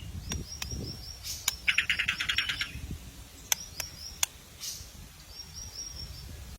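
White-rumped shama (murai batu) calling in an agitated, excited state: sharp single clicks, a fast rattle of about a dozen notes about two seconds in, and short runs of thin high chirps.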